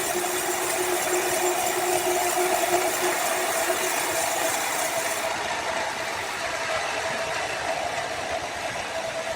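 Sawmill machinery running steadily, a mechanical hum over a broad rattling noise. The higher hiss thins out about halfway through.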